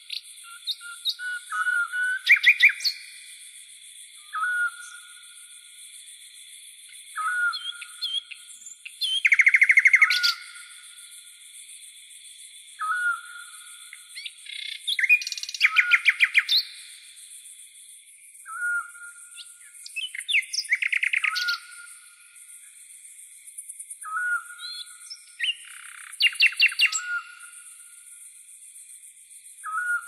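Bird singing at night: short whistled notes repeated every two to three seconds, broken about five times by loud, rapid trills. Behind them runs a steady high-pitched chirring, like night insects.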